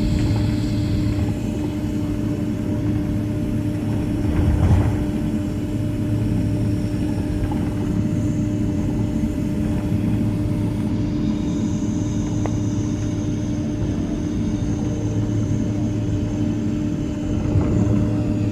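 Steady cabin drone of a Boeing 767-300ER on the ground after landing: engines and air system running with a constant low hum, and a brief louder bump about four and a half seconds in.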